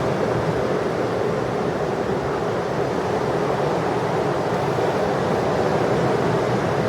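Heavy ocean surf breaking, a steady wash of noise with no let-up.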